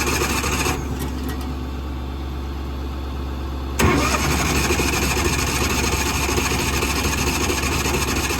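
Engine of a Miller Trailblazer 302 Air Pack welder-compressor-generator cranking over on its starter. The cranking stops about a second in and starts again after a click near four seconds, over a steady low engine hum. The unit is hard to start, and the owner is unsure what is wrong with it.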